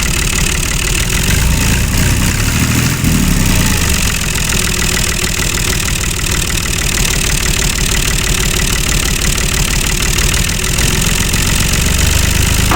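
Tractor engine running steadily at idle with a rapid, even chugging beat. It starts abruptly and holds the same speed throughout.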